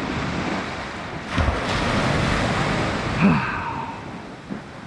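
North Sea waves breaking and washing on the beach, with wind buffeting the microphone. The surf swells louder from about a second in and eases off near the end.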